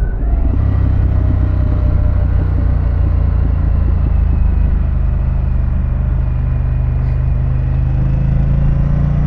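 2024 Harley-Davidson Pan America's Revolution Max 1250 V-twin running steadily under way, its low drone rising slightly in pitch near the end as the bike picks up speed.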